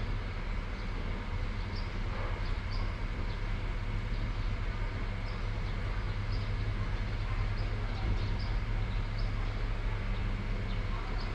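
Heavy rain falling in a steady hiss, with wind buffeting the microphone as a constant low rumble beneath it. Brief high ticks come through irregularly above the rain.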